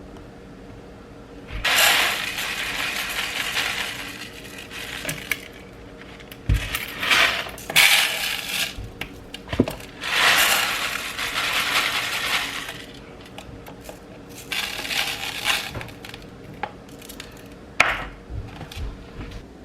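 Kitchen clatter of dishes and utensils clinking and knocking, with three rushing, hissing stretches of one to three seconds each.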